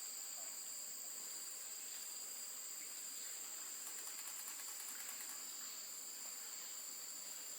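Forest insect chorus: a steady, high-pitched drone of crickets or cicadas. About four seconds in, a faster, very high rapid trill joins for about a second and a half.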